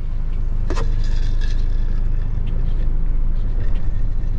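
Steady low rumble of a car's idling engine heard inside the cabin, with a single light click under a second in.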